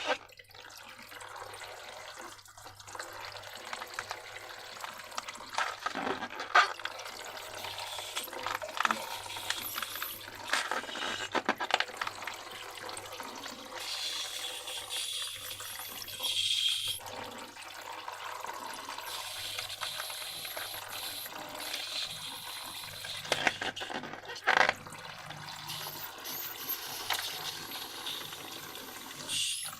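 Wet, sloshing liquid sounds of slime being mixed and handled, with many short sharp clicks and squelches throughout.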